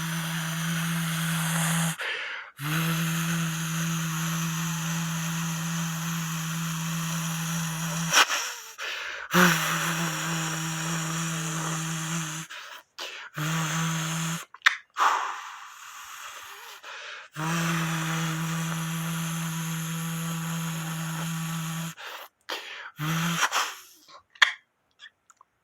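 A steady motor hum with an airy rushing hiss. It cuts off abruptly and starts again several times, then stops about a second and a half before the end.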